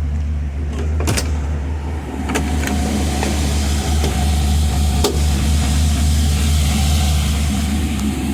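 A 1966 truck's engine running steadily at idle, with a few sharp clicks and knocks from its door being worked.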